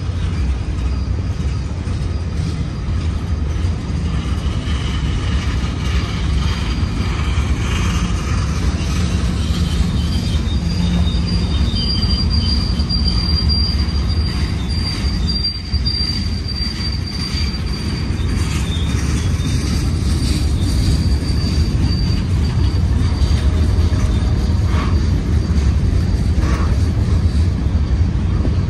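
Freight cars of a Union Pacific manifest train rolling past close by: a steady heavy rumble of steel wheels on rail, with a thin high wheel squeal that rings out through the middle stretch.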